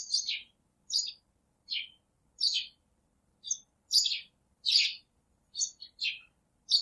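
A songbird chirping: a series of short, high chirps, roughly one or two a second, many sliding down in pitch, with dead silence between them.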